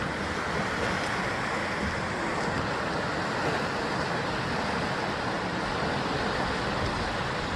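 Sea waves surging against the rocky basalt columnar-joint coast: a steady, continuous rush of surf with no distinct breaks.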